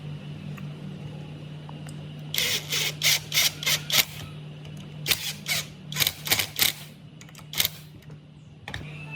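A run of short, sharp hissing bursts, about three a second, then a pause and a second run, over a steady low hum.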